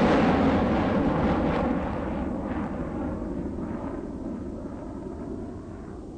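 Hailstorm: a dense roar of hail and rain pelting down that fades steadily, with separate hailstone impacts heard as it thins.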